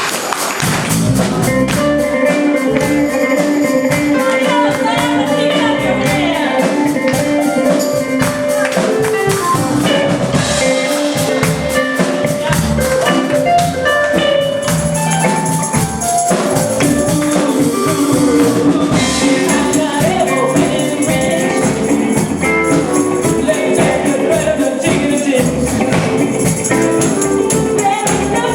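A live band playing an upbeat song with a steady drum beat and bass.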